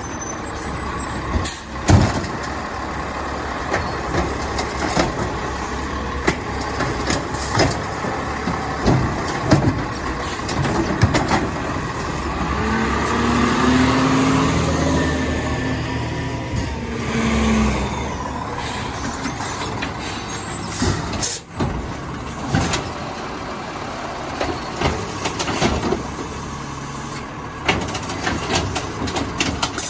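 Crane Carrier cabover garbage truck with an Amrep automated side loader at work, with many knocks and clanks throughout. From about twelve seconds in, the engine revs up, holds for several seconds, then drops back.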